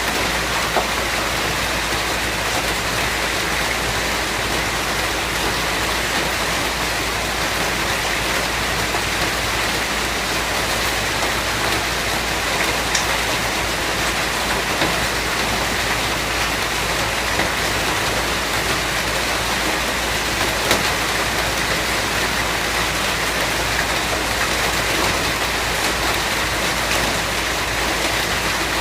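Steady rain falling in an even, dense hiss, with now and then a single louder drop.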